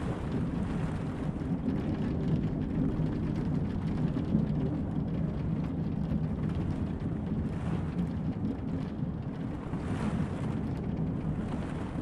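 Steady low rumble of a moving train carriage, with rain pattering on the windows.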